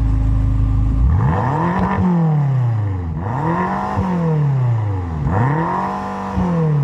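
BMW M5's 4.4-litre twin-turbo V8 idling, then revved three times, about one rev every two seconds, each rising and falling back toward idle.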